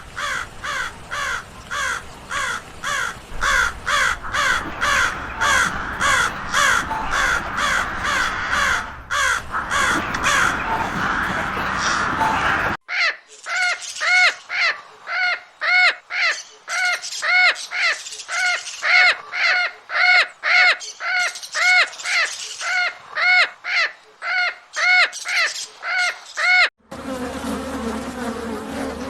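Crows cawing over and over in quick, evenly spaced calls, in two separate recordings joined by a hard cut about thirteen seconds in. Near the end it cuts to the steady buzz of bees.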